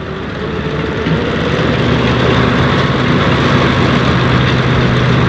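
Tractor's diesel engine running steadily, growing louder over the first couple of seconds as it comes nearer, then holding level.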